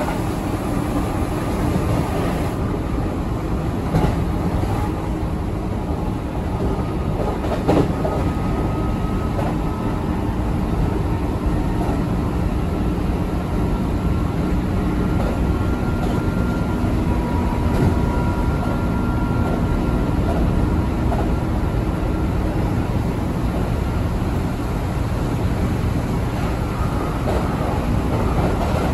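Keihan 8000 series electric train running along the line: a steady rumble of wheels on rail with a faint motor whine, and a sharp knock about four seconds in and again near eight seconds.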